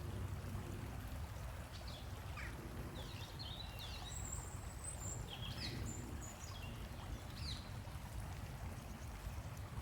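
A bird chirping: short, quick chirps and one brief high whistle from about two to eight seconds in, over a steady low rumble.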